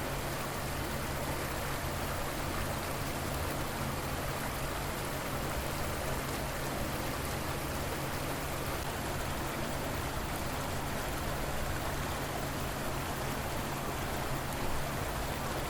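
River water flowing steadily: a continuous, even rush of running water.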